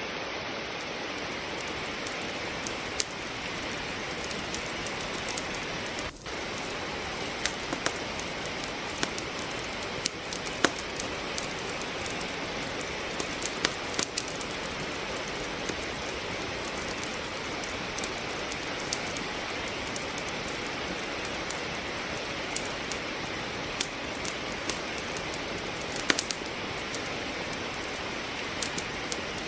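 Steady rain hiss with irregular sharp crackles and pops of burning firewood in a fireplace.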